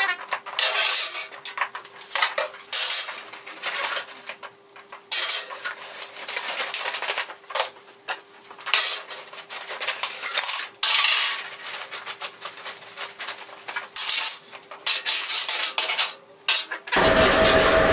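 Metal scraping and clinking in irregular strokes of uneven length, as in hand work on iron. Near the end a loud steady hiss suddenly takes over.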